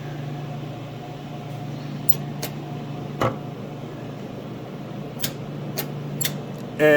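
Steady low electrical hum with hiss from a CB radio and linear amplifier setup, broken by a few short sharp clicks. A loud, held, pitched tone starts just before the end.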